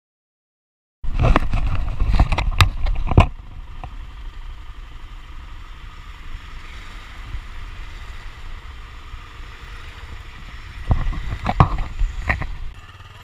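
Wind buffeting the microphone: loud rumbling gusts with sharp pops from about a second in, a steady quieter rush, then another loud gust near the end.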